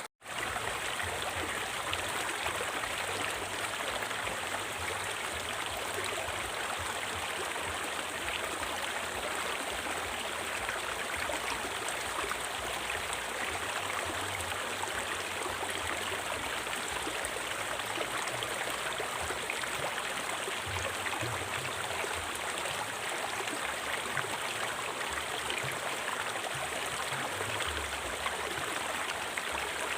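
River water flowing steadily, an even rushing sound. It cuts out for an instant right at the start, then carries on unchanged.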